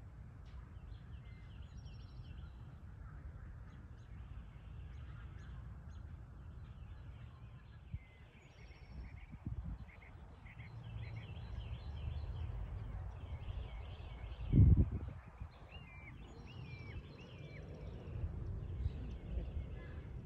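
Small birds chirping and calling over a steady low rumble on the microphone, with a few gliding calls near the end. A single brief thump, the loudest sound, comes about fifteen seconds in.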